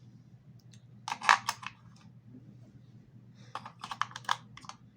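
AA batteries being pushed and snapped into a toy car's plastic battery compartment: two clusters of sharp clicks, one about a second in and another near the end.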